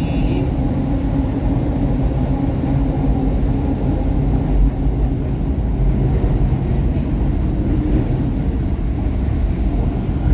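SEPTA Market–Frankford Line train (Kawasaki M-4 car) running between stations: a steady low rumble of wheels on rail and traction motors, with a faint steady hum.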